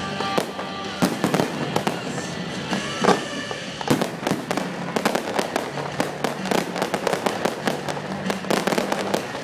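Fireworks display going off: a steady run of sharp bangs and crackles that thickens into rapid crackling from about four seconds in, with music playing underneath.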